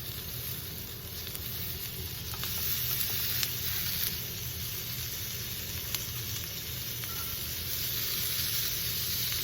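Chicken, bell peppers and onions sizzling steadily on a hot cast iron fajita plate as butter melts into it, with a couple of brief ticks.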